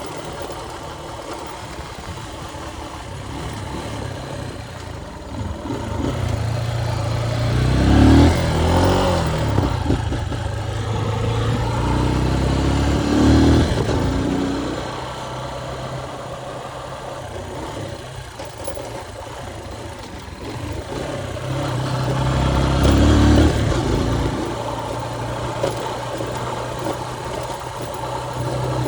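Motorcycle engine running while riding, with a steady rushing noise. The engine swells louder as it revs up several times: about a quarter of the way in, again shortly after, and near the three-quarter mark.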